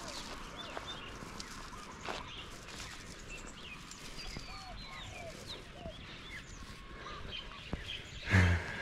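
Wild birds chirping and calling in many short, quick notes over a faint steady hiss of outdoor background noise. Near the end there is one loud, short, low-pitched sound.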